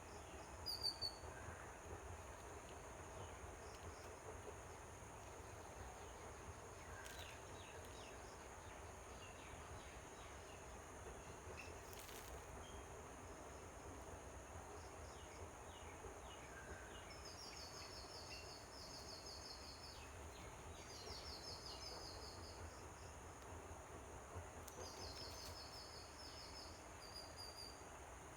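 Faint outdoor ambience under a low steady hum, with small animal calls: a few short high chirps about a second in, then three short rapid high-pitched trills, each about a second and a half long, in the second half.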